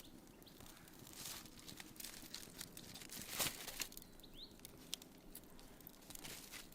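Faint, scattered crackling and rustling, with a short bird chirp about four seconds in.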